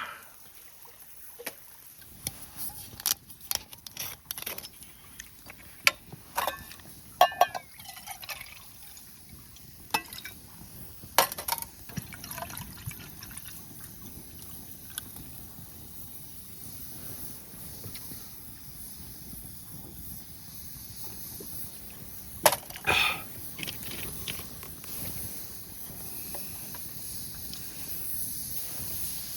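Scattered clinks and knocks of camp gear, with liquid poured in short runs around 7 seconds and again around 23 seconds. A steady hiss slowly builds through the second half.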